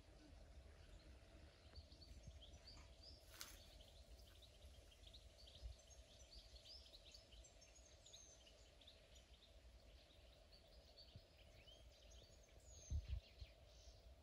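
Near silence with faint birdsong: scattered short chirps throughout. A brief low thump comes near the end.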